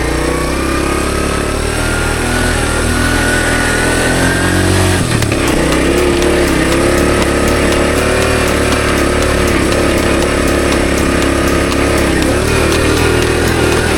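Honda CT110 postie bike's small single-cylinder engine running under way: it revs up as it pulls off, then holds a steady tone, with a short break and drop in pitch about five seconds in, like a gear change, before running steadily again.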